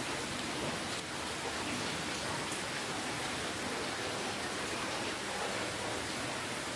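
Steady rainfall: an even hiss of rain, with single drops faintly audible.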